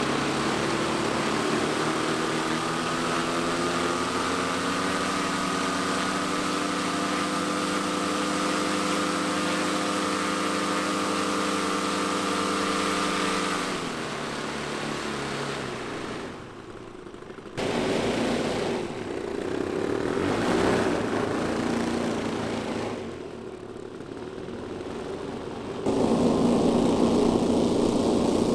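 Engines of a quarter-scale Beech 18 twin-engine model airplane running. A steady engine tone rises slightly in pitch for about fourteen seconds, then falls away. After some quieter, uneven stretches, it runs loud again near the end.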